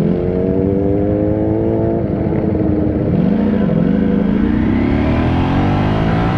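Motorcycle engine accelerating, its pitch climbing steadily, falling back about three seconds in, then climbing again.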